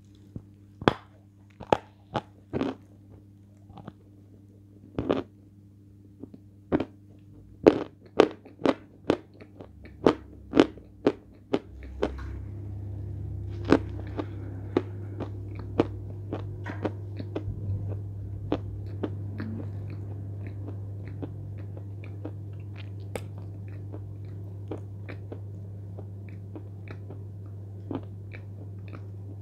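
Close-miked chewing of a firm white zefir marshmallow, with sharp crunchy clicks that come thick for about the first twelve seconds and then thin out. A steady low hum starts about twelve seconds in.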